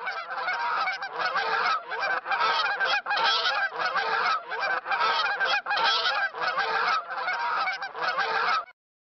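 Several geese honking in a continuous run of overlapping calls that stops abruptly shortly before the end.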